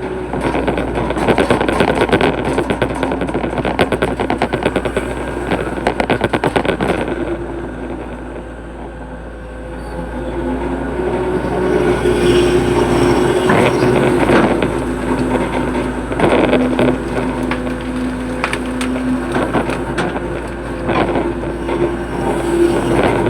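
Hitachi hydraulic excavator digging a ditch: its diesel engine running under load, with dense clattering and knocks for the first several seconds. The engine eases off briefly about a third of the way in, then works harder again with a steadier tone.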